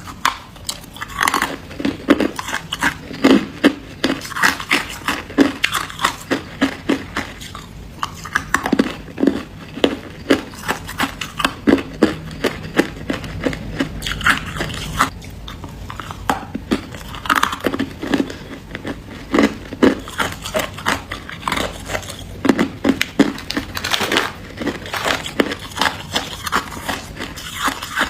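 Freezer frost being bitten and chewed: a dense, irregular run of crisp crunches and crackles.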